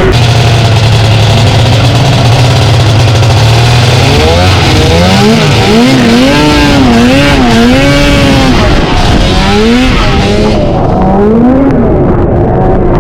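Vintage two-stroke snowmobile engines running hard. There is a steady drone for the first few seconds, then the revs rise and fall repeatedly, over a loud rushing noise that drops away sharply near the end.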